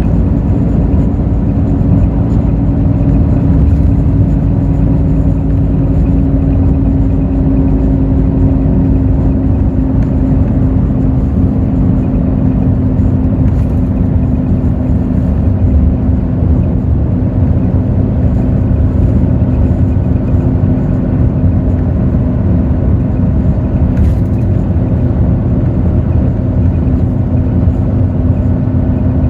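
Hino J08E-VD 7.7-litre inline-six diesel of a Hino RN8JSVU bus running steadily under way, with a constant low rumble of engine and road noise heard from inside the bus.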